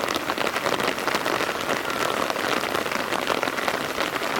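Steady rain falling, with many individual drop hits in a continuous dense hiss.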